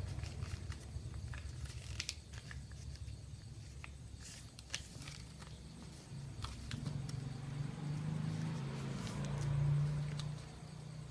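A sheet of paper being handled and folded: scattered crinkles and short sharp clicks as it is creased. Underneath is a low hum that swells about eight to ten seconds in.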